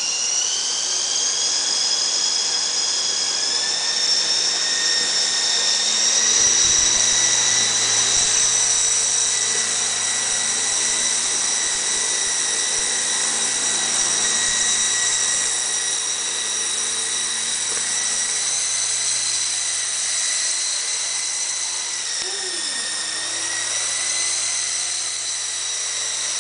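Model RC helicopter (Bell 47 scale) in flight: a steady high-pitched motor and rotor whine that rises in pitch over the first few seconds as it spools up. Near the end the pitch dips briefly, then recovers.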